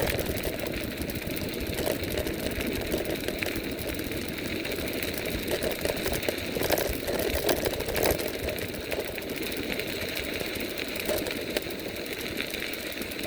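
Steady rush of wind and tyre noise from an electric bike riding at speed, with a few short knocks and rattles a little past halfway.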